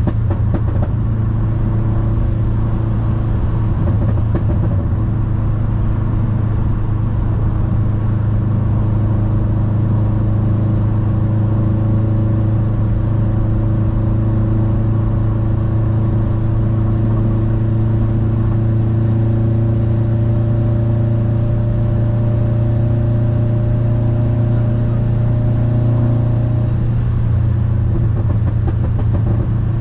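Subaru WRX STI's turbocharged flat-four, through an Invidia aftermarket exhaust, droning steadily at highway cruising speed, heard from inside the cabin with road noise underneath. The drone's tone changes slightly about 27 seconds in.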